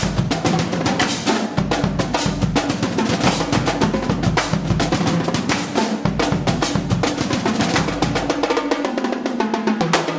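Drums playing a fast, busy pattern of snare drum rolls and bass drum hits.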